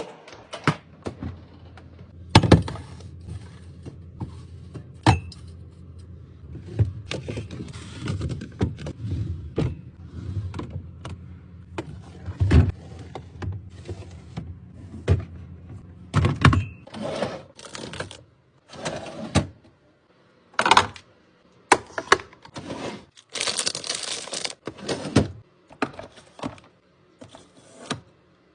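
Packaged food and containers being handled and set into a fridge: an irregular run of sharp clicks and knocks of varying loudness, with soft rustling between them.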